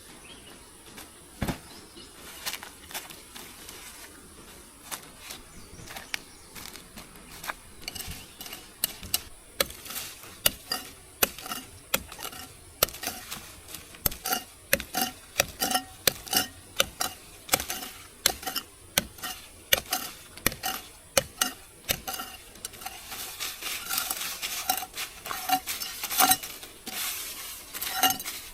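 Metal utensil clinking and scraping against a metal pot or pan, as in stirring: a few scattered clinks at first, then a quick run of clinks, several a second, from about eight seconds in.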